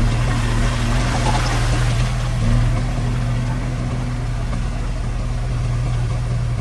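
Diesel engine of heavy construction machinery running steadily with a low hum, and a brief rush of noise about a second in.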